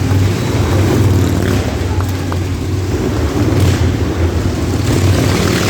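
Motorcycle engines running steadily as riders circle a wall-of-death drum, a loud, continuous low drone.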